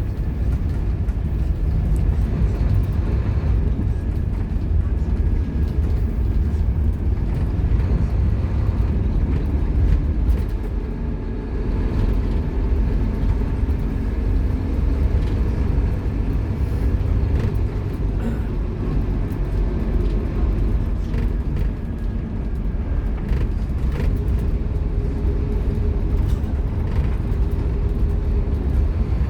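Scania K230UB Omnilink bus running on the road with its engine under way, a steady low rumble with a faint engine tone that dips briefly twice.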